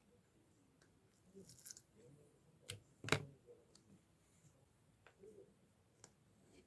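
Slime being pressed and worked by hand: faint sticky squishes broken by a few sharp pops and clicks, the loudest about three seconds in.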